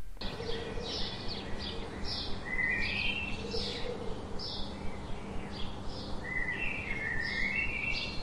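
Birds chirping: short chirps repeated about twice a second, with two longer warbling trills, over a steady low hum and background hiss.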